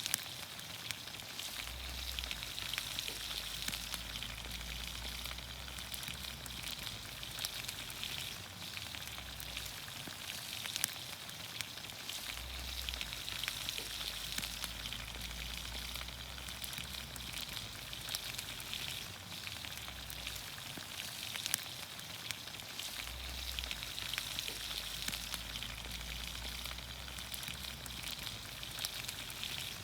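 Vegetables sizzling in olive oil over a campfire: a steady hiss flecked with fine crackles. A low rumble comes and goes under it every several seconds.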